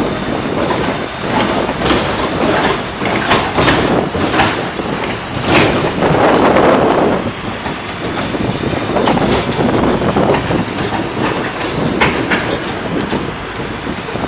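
Tourist road train running along the street: a continuous rumble and rush with frequent rattles and clicks from the carriages, swelling louder about six seconds in.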